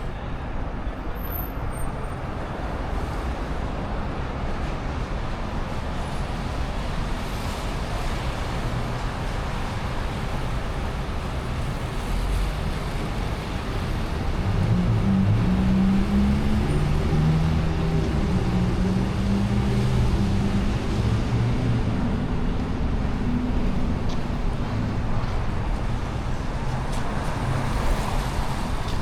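City street traffic: a steady hum of passing cars. From about halfway, a heavier vehicle's low engine sound grows louder and runs on until near the end.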